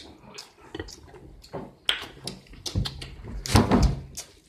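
Close-miked eating sounds: spaghetti being chewed, with a run of short sharp mouth clicks and smacks and a louder burst about three and a half seconds in.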